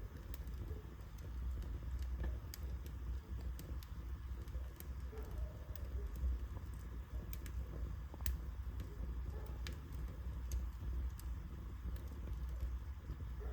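Wood fire burning in a fireplace: irregular sharp crackles and pops, roughly one or two a second, over a steady low rumble.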